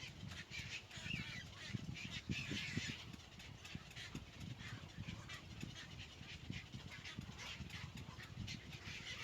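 Nestling birds giving harsh begging calls at the nest, busiest in the first three seconds, over a low rumbling background.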